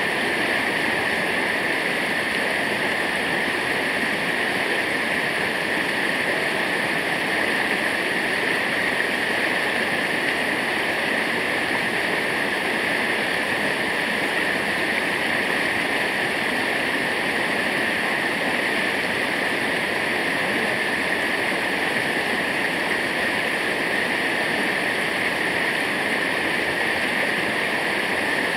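Waterfall: water pouring and rushing in a steady, unbroken roar.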